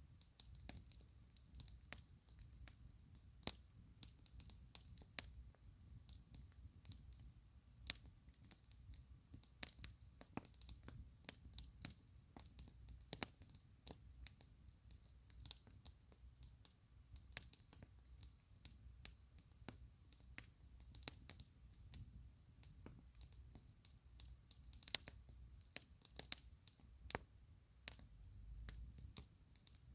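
Wood campfire crackling: irregular sharp pops and snaps, a few a second, over a faint low rumble of the burning fire.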